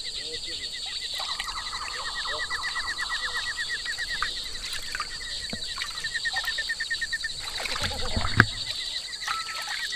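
Animal calls in a chorus: a fast, even train of high chirps repeating for most of the stretch, over a steady high hum. A louder rumble and a single sharp knock come about eight seconds in.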